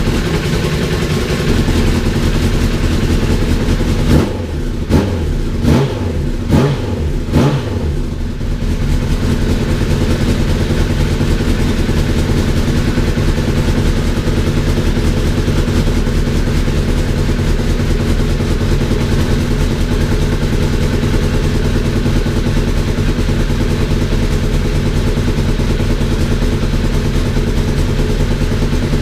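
Honda CBR1000RR's inline-four engine idling steadily after a gearbox rebuild, with about five quick throttle blips in a row a few seconds in, then settling back to idle.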